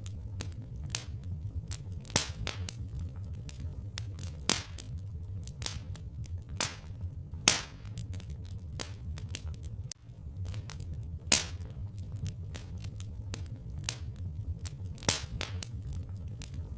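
Wood fire crackling: frequent small irregular clicks with a handful of louder pops, over a steady low rumble.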